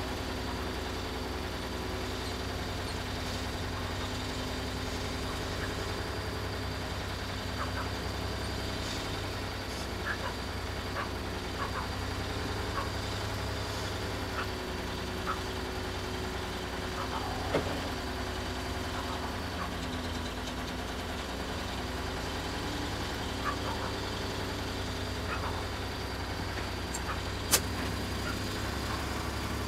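An engine running steadily at low speed, with scattered light knocks and clanks and one sharp click near the end.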